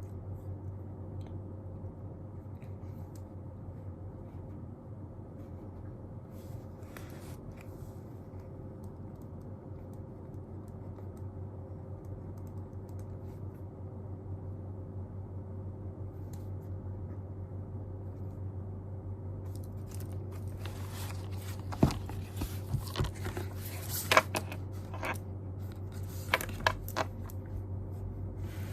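Steady low hum of the room, and from about two-thirds of the way in a run of small clicks, rustles and taps from handling things at a desk, a few of them sharp.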